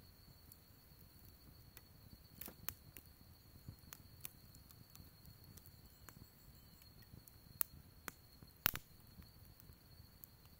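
Wood fire crackling: sparse, irregular pops and snaps, the loudest one about three-quarters of the way through, over a steady high-pitched whine.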